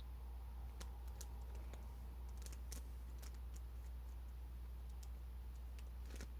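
Faint room tone with a steady low hum and scattered light clicks and ticks at irregular moments, clustered around the middle.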